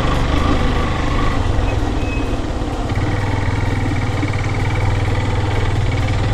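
Yamaha FZS V2's single-cylinder engine running as the motorcycle rides slowly over a rough mud road. The engine note drops for about a second and a half near two seconds in, then picks up again.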